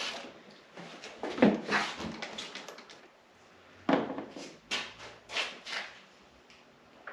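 Irregular knocks, clunks and scraping from snowmobile parts being handled and fitted, about half a dozen separate hits with quieter rubbing between them.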